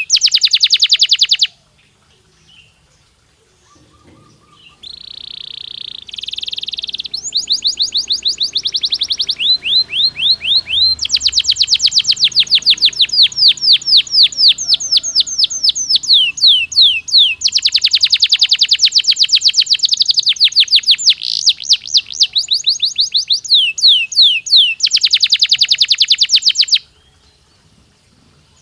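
Domestic canary singing long phrases of rapid trills of repeated sweeping notes, shifting from one trill type to the next. The song breaks off briefly near the start and falls silent near the end.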